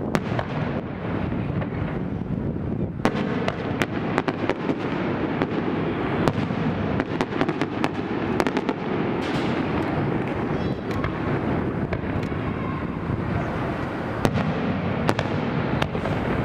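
Fireworks display: shells bursting with a continuous low rumble, and many sharp crackling bangs that come thick and fast from about three seconds in.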